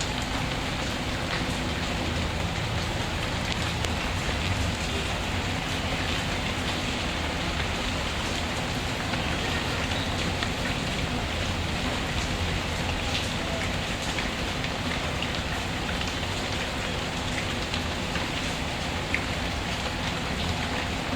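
Steady rain, falling evenly without a break, with scattered faint ticks and crackles from a wood fire.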